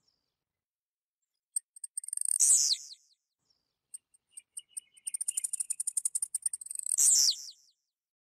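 Blue-black grassquit (tiziu) singing twice: each time a run of quick, dry, high ticks leads into a loud, buzzy note that slides down in pitch.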